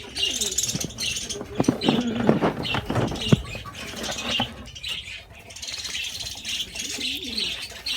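Small birds chirping over and over, with a few light knocks in the first few seconds.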